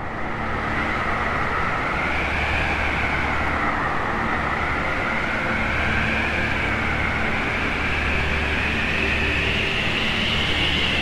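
Winter wind sound effect: a steady gusting rush with a howl that slowly rises and falls in pitch over a low rumble, fading in at the start.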